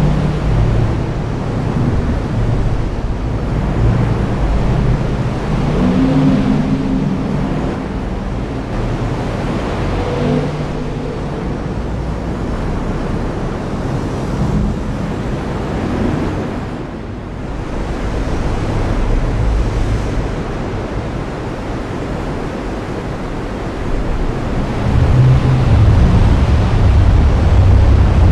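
Heavy rain with a steady hiss, under low rolling rumbles of thunder that swell and fade several times, the loudest rumble building near the end.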